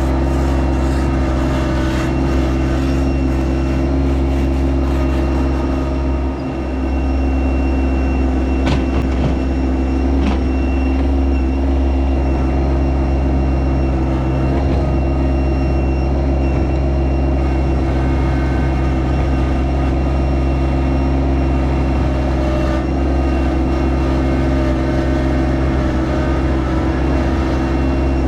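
Yanmar SA324 compact tractor's three-cylinder diesel engine running steadily at a constant engine speed, with a brief dip about six seconds in.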